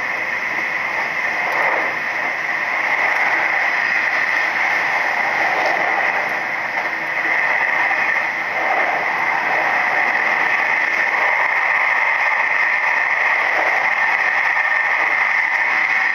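Steady running noise of a Nishitetsu 3000 series electric train at speed, heard from inside the passenger car, with a continuous hiss strongest in the upper middle range.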